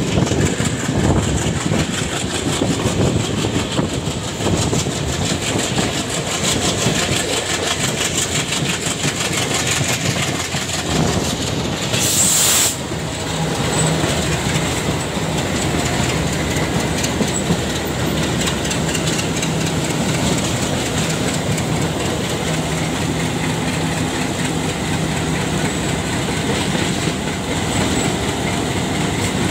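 Indian Railways passenger train running, heard from on board: a steady clatter of wheels over rail joints with running noise. There is a short hiss about twelve seconds in, and a low steady hum joins from about fourteen seconds.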